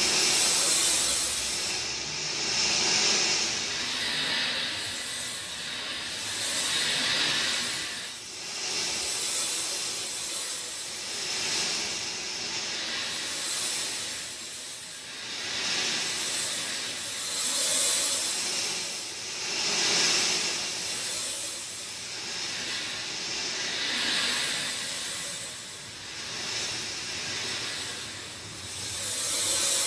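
Steady rainfall, a dense hiss that swells and fades every few seconds.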